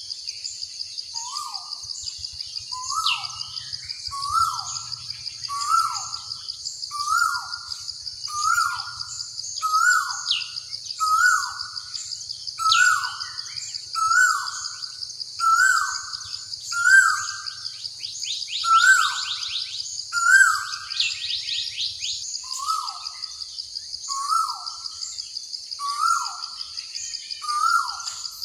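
A bird repeating a short falling call over and over, about once every second and a bit, pausing briefly around two-thirds of the way in. Behind it runs a constant high shrill drone, with brief high chirps and a couple of quick trills from other birds.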